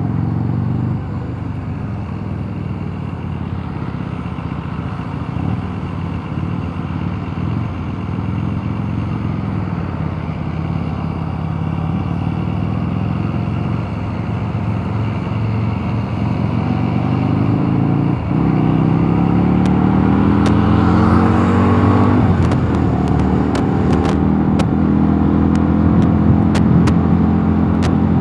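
Mondial Nevada 250 motorcycle engine running under way, with a steady noisy rush over it. In the second half it gets louder and its pitch climbs as the bike accelerates, with a short dip about two-thirds through. Sharp clicks come repeatedly near the end.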